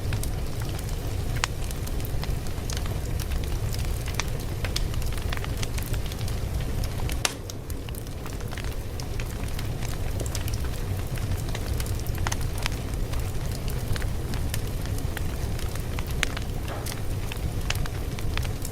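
Fire crackling: irregular sharp pops and snaps over a steady low rumble, with a brief dip in level about seven seconds in.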